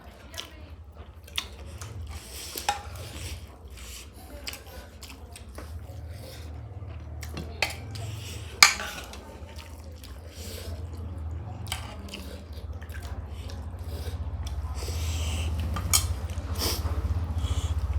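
Eating sounds: chewing, with sharp clinks of a utensil against a plate or dish now and then, the loudest about halfway through, over a steady low hum.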